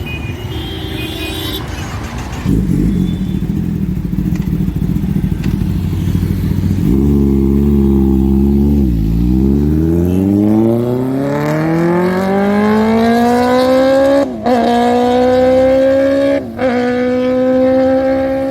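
Kawasaki ZX-10R's inline-four through an Arrow aftermarket exhaust: the engine note dips, then rises steadily as the bike accelerates hard, with two quick upshifts near the end, each dropping the pitch before it climbs again.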